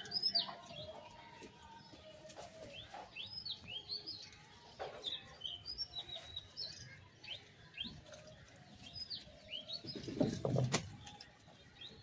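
Small birds chirping over and over, a steady string of quick, short chirps that fall in pitch. About ten seconds in there is a brief, louder low noise with a sharp knock.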